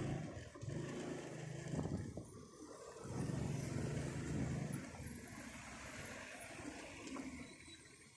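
Car engine running with road noise, its low hum swelling and easing off, louder in the first half.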